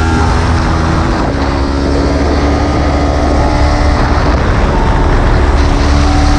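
Kawasaki Ninja 300 parallel-twin engine running steadily on the track, heard from the bike with a dense rush of noise behind it. Its pitch dips a little about a second in, then climbs slowly as the bike accelerates.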